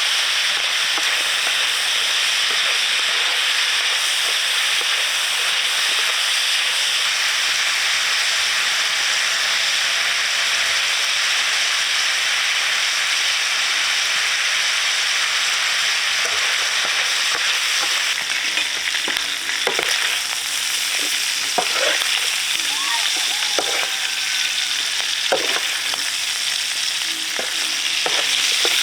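Food sizzling steadily in a hot pan. From the second half on there are scattered knocks and scrapes of a utensil stirring.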